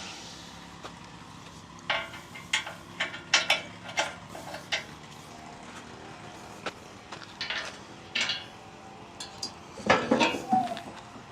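Irregular light metallic clinks and knocks, a few at a time, over a steady low background, with a louder cluster of clanks near the end.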